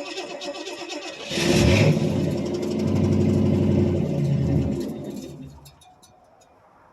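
1978 Pontiac Bonneville's 301 V8 on a cold start after sitting almost two months: the starter cranks it with a fast, even rhythm, and about a second in the engine catches with a loud rev-up. It then runs for a few seconds before dying away near the end.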